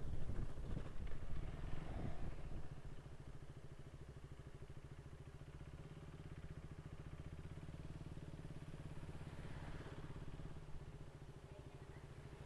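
Motorcycle engine running under way, louder for the first couple of seconds and then settling into a steady, quieter hum.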